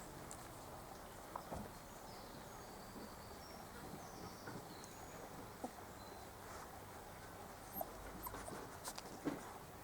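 Quiet outdoor background with scattered small taps and a few faint high squeaks from a litter of four-week-old puppies moving about; the taps bunch together near the end.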